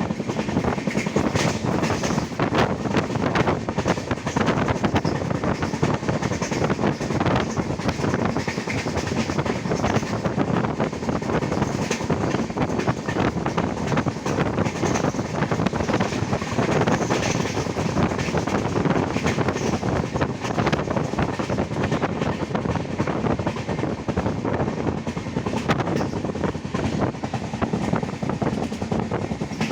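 Indian Railways passenger train running, heard from on board: a steady rumble and rush of air with the clickety-clack of the wheels over the rail joints.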